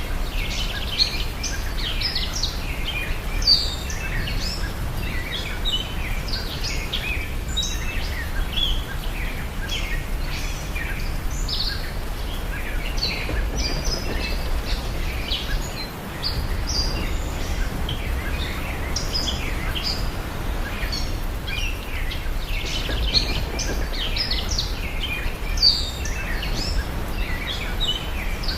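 Birdsong ambience: many small birds chirping and twittering without a break, over a steady low rumble.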